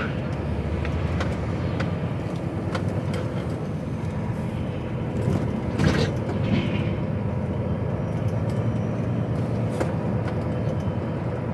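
HGV truck's diesel engine and road noise heard from inside the cab, a steady low rumble with small rattles and one louder knock a little before halfway through.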